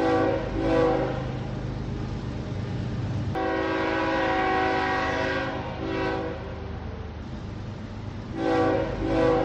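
Locomotive air horn blowing a chord of several notes in separate blasts: two short ones at the start, a long one about three seconds in, then more short blasts near the end. A steady low engine hum runs underneath.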